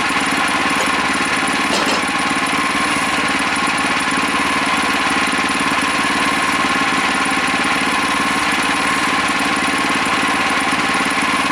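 Engine of a Woodland Mills HM126 portable bandsaw sawmill running steadily as the mill saws a cottonwood log, with a steady whine over the engine's even pulse.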